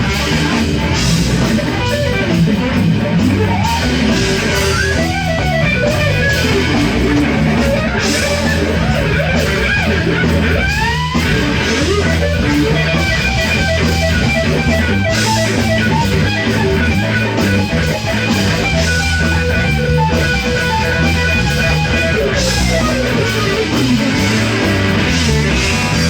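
Live band playing an instrumental passage, with electric guitar leading over a steady bass line. About eleven seconds in, the guitar slides up sharply in pitch.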